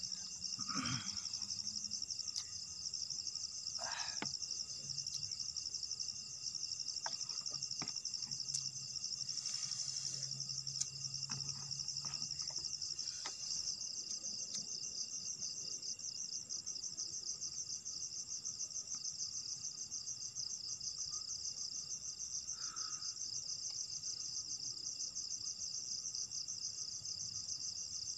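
Crickets chirping in a steady, rapid trill, with a few faint clicks and knocks in the first half.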